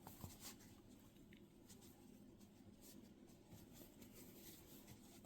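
Near silence with faint scattered light clicks and rustles of a crochet hook working yarn, single crochet stitches being made.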